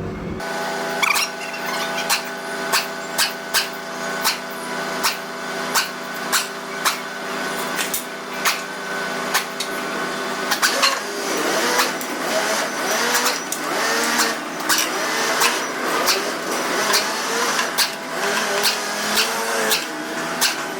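A machine running with a steady, multi-tone hum and a regular click about twice a second; from about halfway, wavering pitched sounds join in over it.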